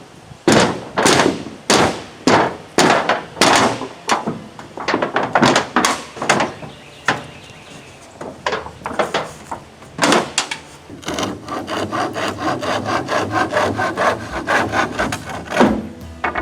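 Working on wood with a hand tool, most likely a saw: separate rasping strokes about one and a half a second, then a faster, even run of about five strokes a second near the end.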